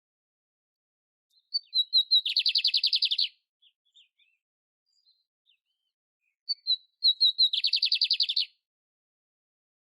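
Canário império (canary) singing the same short phrase twice: a few sharp, high introductory notes, then a fast, even trill lasting about a second.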